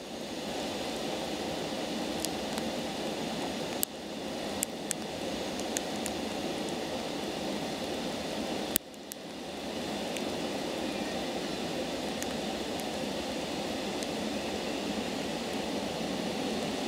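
Steady rushing hum from an E6 series Shinkansen train standing at the platform with its onboard equipment running, before it moves off. A few sharp clicks sound about four to six seconds in, and a louder one near nine seconds.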